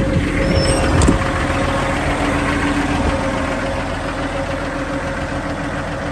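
Cummins diesel engine of a 2010 Peterbilt 389 running steadily at a raised idle held up with the cruise control. There is a single sharp knock about a second in.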